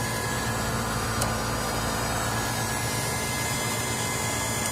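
Air-conditioning condenser unit running with a steady electrical and mechanical hum, with a light click about a second in.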